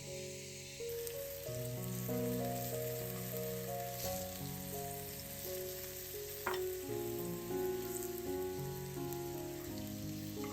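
Soft instrumental background music of slowly changing sustained notes, over a steady sizzle of food frying in a pan that starts about a second in. A single click about six and a half seconds in.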